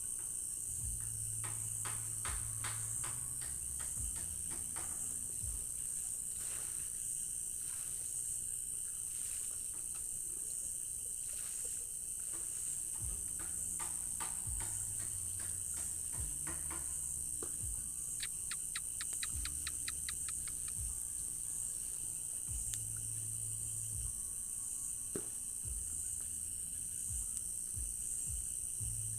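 Night cricket chorus: a steady, high, shrill trill that never stops, with bursts of rapid clicking calls from other insects, the clearest a quick run of about eight clicks a second a little past the middle.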